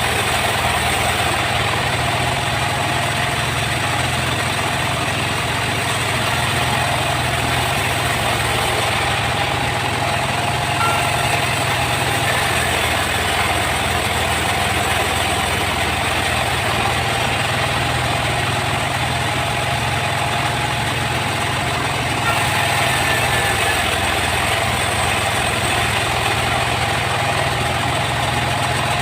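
Sawmill machinery running steadily, a constant engine-like drone with a steady hum and no breaks or knocks.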